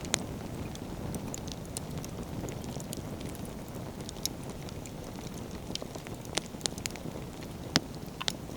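Firewood burning in an open bonfire, crackling with scattered sharp pops over a steady low rushing noise; the loudest pops come just after the start and near the end.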